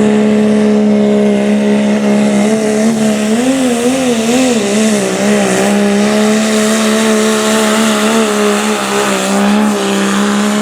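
Super modified four-wheel-drive pulling truck engine running hard at high, nearly steady revs during a pull, its pitch wavering up and down in short runs a few seconds in and again near the end.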